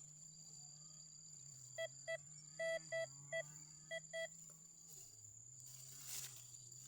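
Metal detector beeping: about eight short beeps at one pitch, in quick clusters over two and a half seconds, the detector's signal that it has found metal. A faint steady hum runs underneath.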